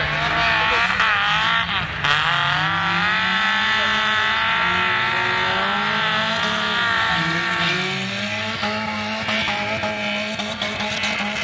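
Several race car engines, among them a Peugeot 205 diesel hatchback, revving hard, their pitch rising and falling as the throttle is worked through the turns.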